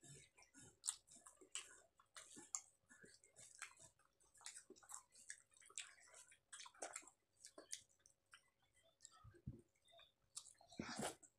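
Faint, irregular eating sounds of people eating rice by hand: soft chewing, lip smacks and small wet clicks, with a louder burst near the end.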